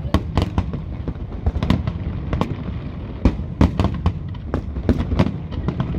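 Aerial fireworks display, a dense run of shell bursts going off several a second: sharp bangs and cracks over a continuous low rumble.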